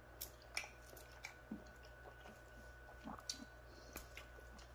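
Faint chewing of a mouthful of shrimp pasta with the mouth closed, with a few small mouth clicks and smacks scattered through.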